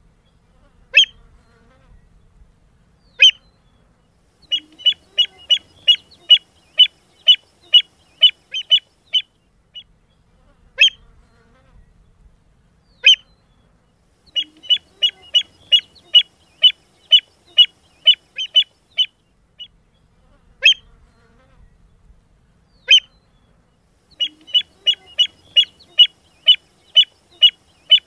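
A bird giving sharp, high call notes. Two single calls a couple of seconds apart are followed by a quick run of about a dozen calls at two or three a second, and the same sequence repeats about every ten seconds.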